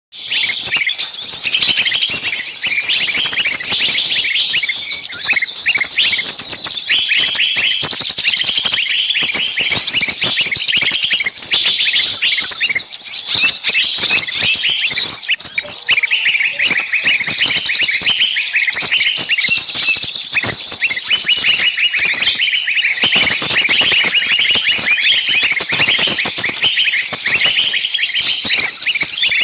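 Dense, continuous chorus of many small songbirds chirping and screaming over one another, the frantic distress and alarm calls of small birds as if one were caught, used as a lure call to draw small birds in.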